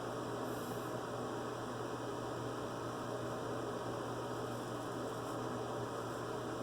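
Steady electrical hum with hiss, and a faint short scratchy sound about half a second in.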